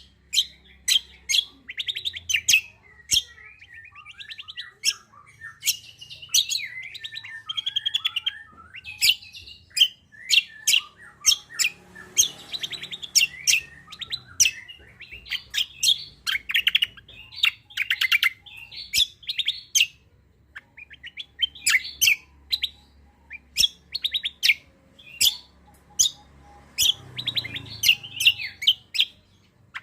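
Songbird song used to train caged birds, kecial kombo and cucak kombo calls: rapid, sharp, repeated chirps with short warbling runs in between, going on without a break.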